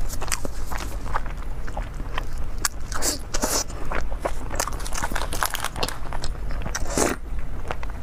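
Close-miked chewing and biting of spicy chicken drumstick meat, a run of irregular short clicks and mouth sounds.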